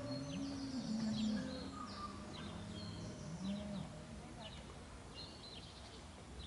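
Small birds chirping, with short trills. Under them, in the first few seconds, a faint voice calls in drawn-out tones.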